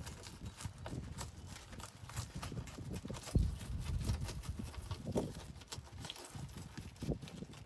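A rapid, irregular run of knocks, taps and scrapes from work on a car's front windshield being removed, with a heavier thump about three and a half seconds in.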